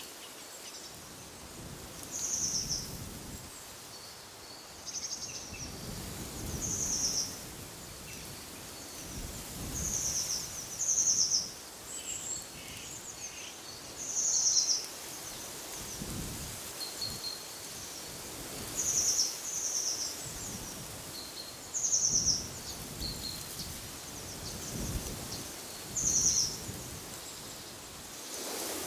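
A bird calling over and over, short high-pitched calls every two to four seconds, sometimes two in quick succession. Wind gusts come and go underneath as a low rumble.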